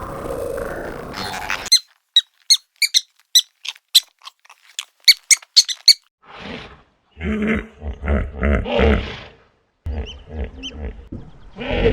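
A quick series of short, high-pitched animal squeaks, about a dozen over four seconds, followed by several rough, growling calls.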